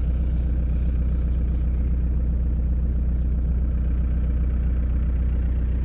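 1999 Volkswagen Beetle TDI's 1.9-litre four-cylinder turbodiesel idling steadily just after a cold start, running a bit rough while cold.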